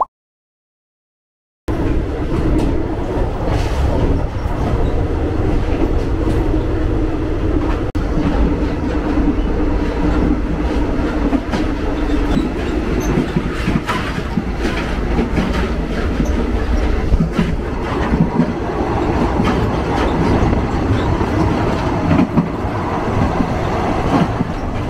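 Passenger train running along the track, a loud steady rumble with repeated wheel clacks over rail joints; it starts suddenly after a second or two of silence, and a steady low hum fades about halfway through.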